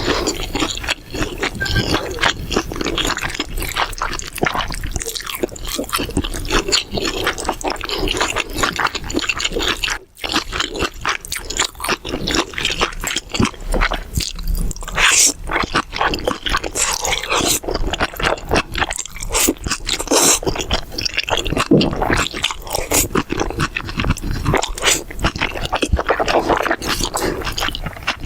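Close-miked eating sounds: chewing and crunching mouthfuls of mala xiang guo, a spicy Sichuan stir-fry, as a dense run of crackly clicks and wet mouth noises, with a brief pause about ten seconds in.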